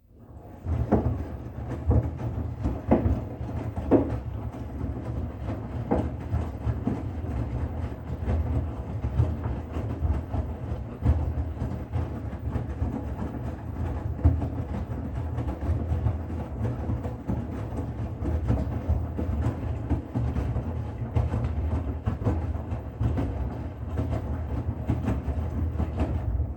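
Bosch Serie 6 washing machine running: a steady low rumble with scattered knocks, several of them in the first few seconds.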